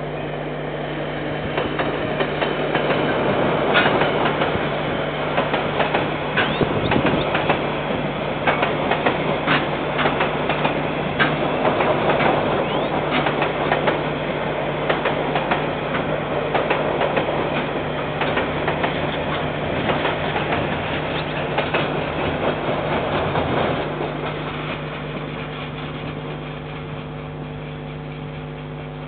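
Freight train of container wagons rolling past, heard through a security camera's microphone: a continuous rumble of wheels on rail with many sharp clicks and knocks, dying down over the last few seconds as the end of the train goes by.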